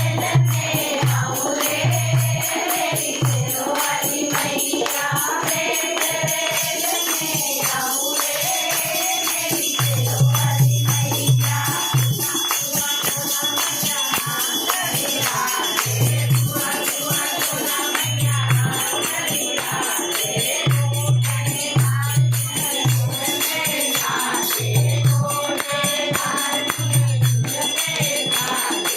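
A group singing a Hindi devotional bhajan in chorus, with jingling, rattling hand percussion and a repeating low beat underneath.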